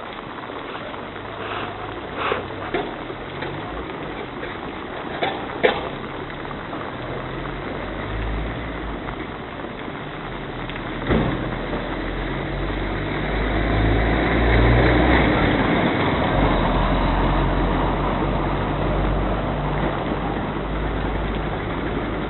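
Motor vehicle engine rumble under a steady wash of road and rain noise, growing louder about halfway through and then easing a little. A few sharp knocks sound in the first six seconds and once more about eleven seconds in.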